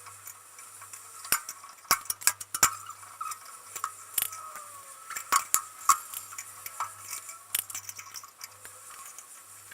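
Hand tools and metal brake parts clinking and knocking irregularly as a Chevy pickup's rear drum brake is worked on, with louder metallic strikes in clusters about two seconds in and again around five to six seconds in.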